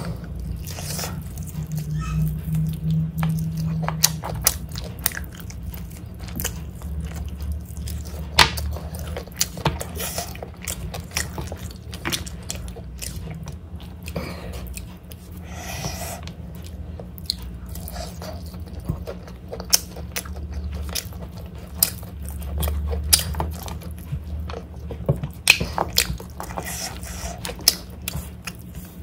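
Close-up chewing and wet mouth clicks of someone eating chicken biryani and pork gravy by hand, with many short smacks throughout over a steady low hum.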